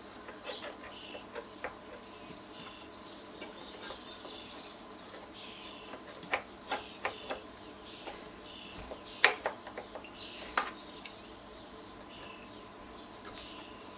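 Scattered clicks and knocks of hand work on an amplifier's circuit boards and chassis, the sharpest about nine seconds in, over faint high chirping.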